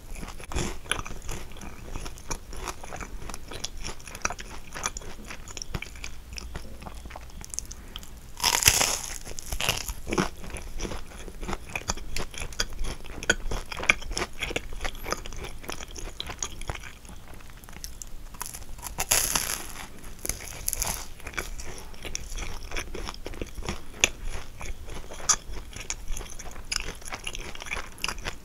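Close-up eating of a kouign-amann: its caramelised sugar crust crunching and crackling under the teeth amid steady chewing. Two louder crunchy bites come about a third and two-thirds of the way through.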